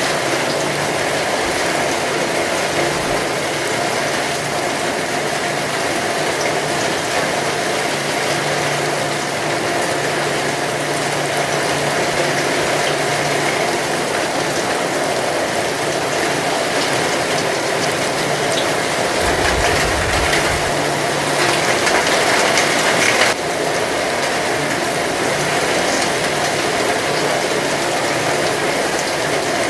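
Heavy rain falling steadily, a dense crackling hiss with a faint low hum beneath it. A short low rumble comes about twenty seconds in.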